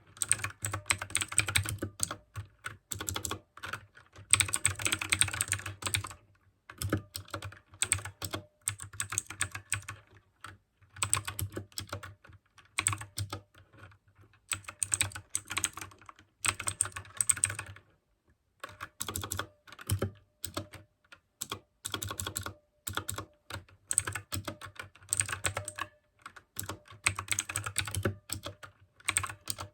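Mechanical keyboard with blue (clicky) switches being typed on fast, in bursts of a second or two with short pauses between.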